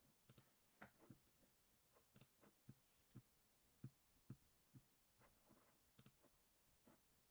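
Near silence broken by faint, irregularly spaced clicks, about a dozen in all.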